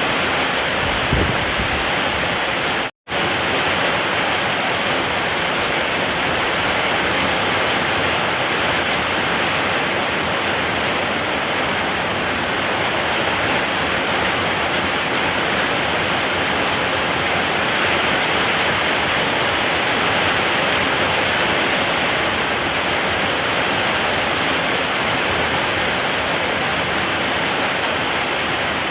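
Steady, heavy rain falling, an even hiss with no let-up. About a second in there is a brief low thump, and about three seconds in the sound cuts out to silence for a split second before carrying on.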